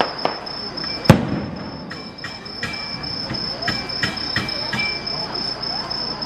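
Fireworks going off: a faint bang at the start, a sharp loud bang about a second in, then scattered smaller cracks. Insects keep up a steady, high, pulsing trill underneath.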